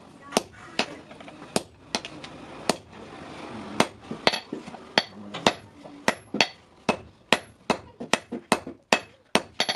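Blacksmith's hammer striking steel on an anvil while forging a hasua blade: a string of sharp, ringing metal blows, about two a second at first and quickening to about three a second from roughly the middle onward.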